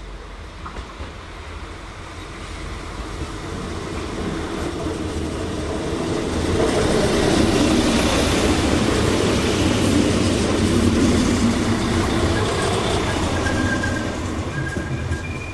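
A train passing by on the rails: the rumble builds, is loudest in the middle and fades again, with a faint wheel squeal setting in near the end.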